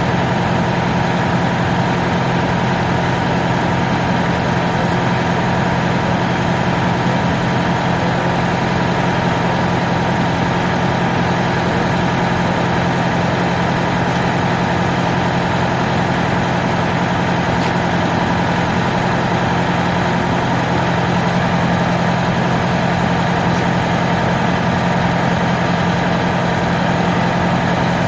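Steady, unchanging engine drone, like a motor running at idle.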